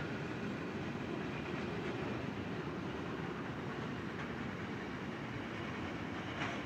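A long freight train's wagons rolling along the track, a steady rolling noise with faint clicks.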